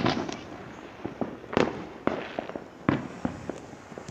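Fireworks going off: an uneven run of sharp bangs and pops, the loudest right at the start and about a second and a half in.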